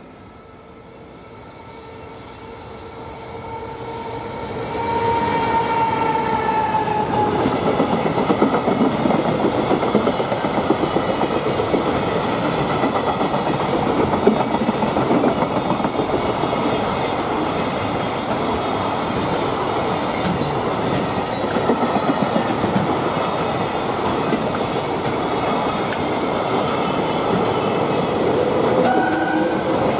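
An EF210 electric freight locomotive approaches with a steady whine from its traction motors, growing louder. From about five seconds in, a long container freight train rolls past close by, its wheels clattering steadily over the rails.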